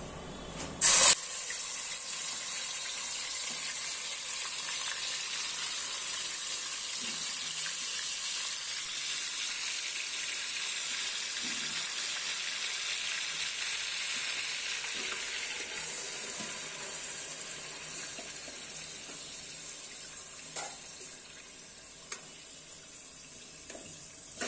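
Yogurt-marinated chicken pieces frying in hot oil: a loud burst about a second in as they go into the oil, then a steady sizzle that slowly dies down over the last several seconds.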